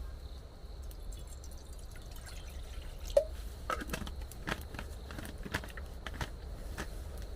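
Water dripping: irregular drops, starting about three seconds in, the first one a loud plink, over a steady low rumble.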